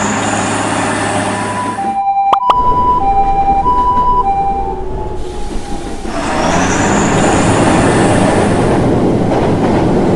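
A train rushing past with a wide, steady roar. In the middle the roar dips, there are two sharp clicks, and a tone alternates between two pitches for about three seconds. Then the train noise swells back and holds.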